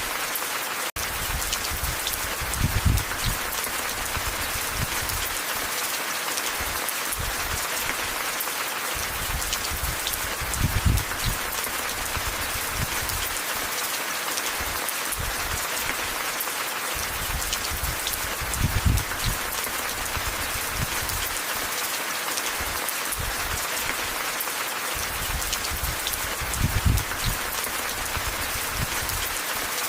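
Steady rain falling and pattering on surfaces, an even hiss with brief low swells about every eight seconds.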